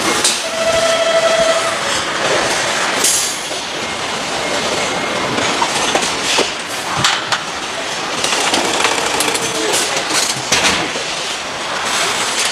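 Motorcycle assembly-line noise: clanking and clicking of machinery and parts over a steady rush, with a short steady tone lasting about a second near the start.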